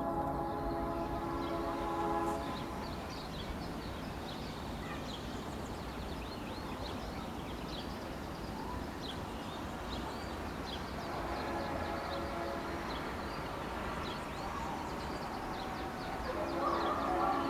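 Birds calling with many short, high chirps in a fruiting jaboticaba tree, over a steady drone of several held pitches that sounds for the first two seconds, fades, and returns from about the middle to the end.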